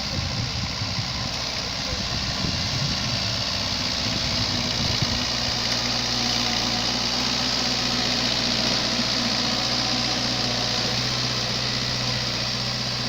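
Tractor engine running, uneven for the first five seconds or so, then settling into a steady, even idle.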